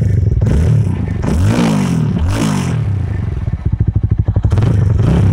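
TVS Apache RTR 200 4V's carburetted single-cylinder engine idling and blipped twice, the revs rising and falling each time. The exhaust note is deep and bassy.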